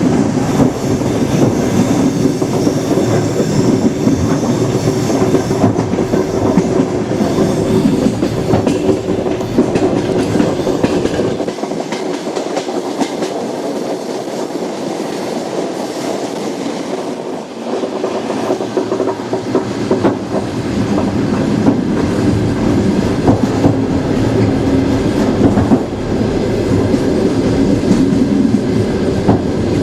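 Railway carriage wheels running on the rails: a steady rumble with dense clicking over the track. About eleven seconds in the deep bass drops away and the sound is quieter for several seconds, then the full rumble comes back.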